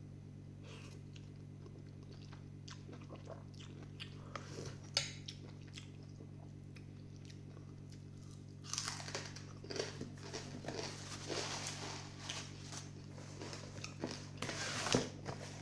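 Close-up eating sounds of rice-vermicelli noodle soup: small chopstick and bowl clicks at first, then from about nine seconds in a louder, busy stretch of slurping and chewing. A low steady hum runs underneath.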